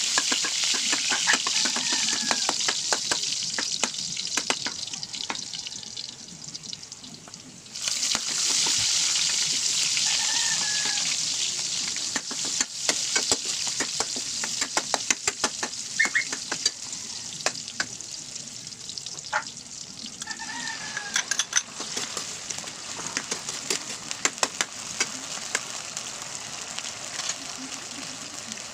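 Garlic and onions sizzling in hot oil in a metal wok, with a metal ladle clicking and scraping against the pan as they are stirred. The sizzle jumps louder about eight seconds in, then dies down gradually over the last several seconds.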